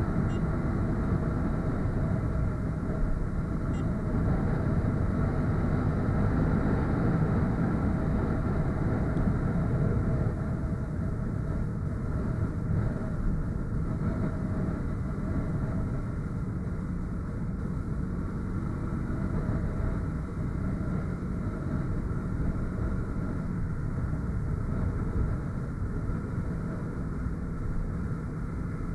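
Motorcycle engine running steadily while being ridden, with wind and road noise around it, easing off slightly partway through.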